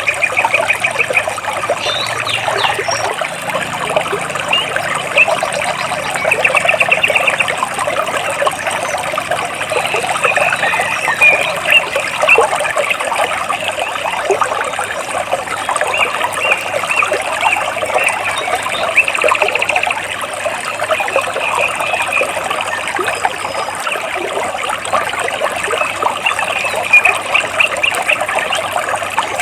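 Stream water trickling and splashing between rocks. Birds chirp over it in quick trills, several times.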